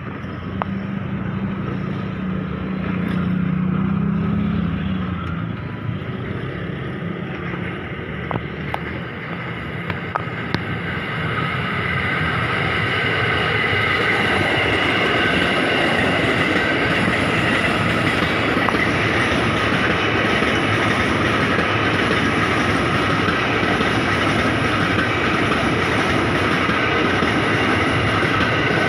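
Train on the rails with a low hum for the first few seconds. From about twelve seconds in it grows into a louder, steady rush of wheels with several high steady tones over it.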